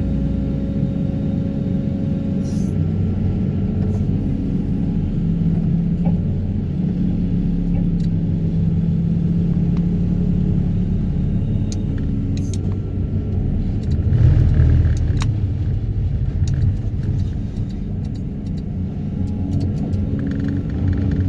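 Heavy excavator engine and hydraulics running steadily under load while working a vibro hammer on sheet piles, swelling louder about two-thirds of the way through, with scattered sharp clicks and knocks.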